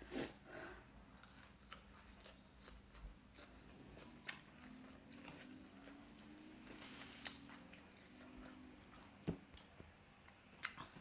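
Faint eating sounds: chewing and crunching, with scattered small clicks and taps.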